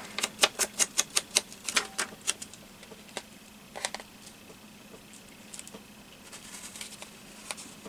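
An ink pad or ink-blending tool dabbed quickly and repeatedly on the paper edges of a collage piece, about three or four taps a second. The tapping slows to a few scattered taps after about two and a half seconds.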